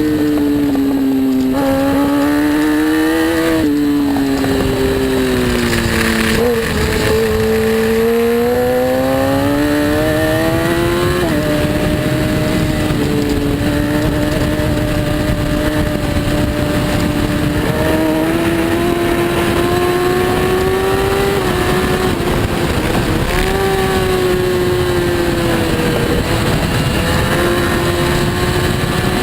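Racing superbike engine at race pace, its pitch rising and falling over a few seconds at a time with the throttle, and a few sudden jumps in pitch, over a steady rushing noise.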